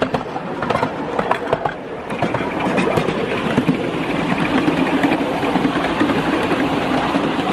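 A 5-inch gauge miniature steam locomotive, a model of the Duchess of Hamilton, running on the track with its train. Sharp clicks in the first couple of seconds give way to a steadier, louder running sound.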